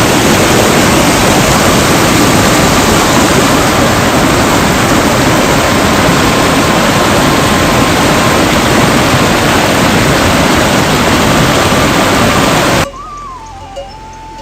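Loud, steady rushing noise, like a waterfall or fast stream, that cuts off abruptly about 13 seconds in.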